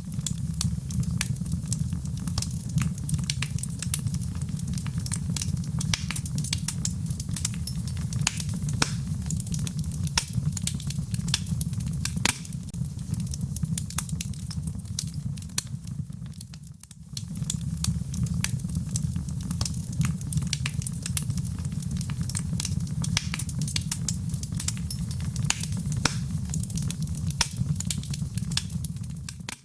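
Wood fire burning: a steady low rumble of flames with dense crackles and sharp pops throughout. The sound dips briefly about two-thirds of the way through, then carries on.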